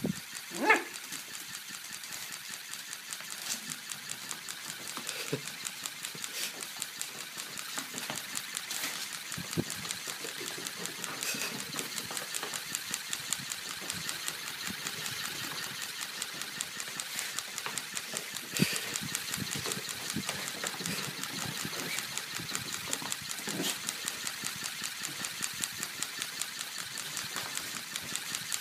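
A sato puppy gives one short bark about a second in, then huffs frustrated exhales. Under it runs a steady, rapid mechanical clatter.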